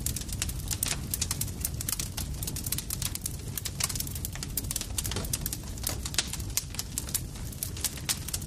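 Wood campfire crackling: dense, irregular pops and snaps over a steady low rumble of the flames.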